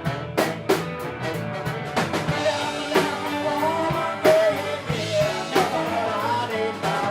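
Live rock band playing: drum kit hits under guitar, with a singing voice.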